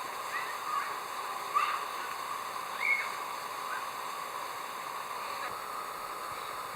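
A few short bird calls, the loudest about one and a half seconds in, over a steady background hiss.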